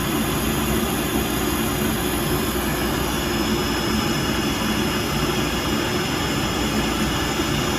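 Vacuum cleaner running steadily, its suction held against a fabric sample in a suction test; an even, unbroken motor-and-airflow noise.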